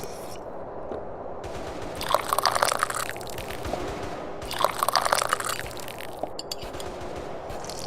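Tea being slurped loudly from a cup twice, each sip lasting about a second, with a wet crackle.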